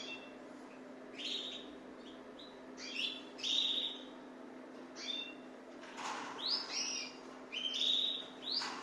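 Many caged birds chirping in short, repeated calls, some with quick upward slides, over a steady low hum.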